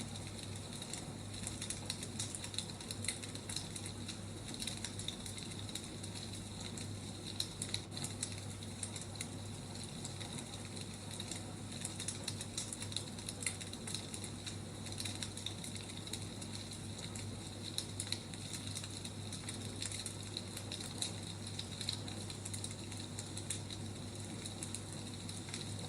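Wood fire crackling, with frequent irregular small pops and snaps over a steady low hum.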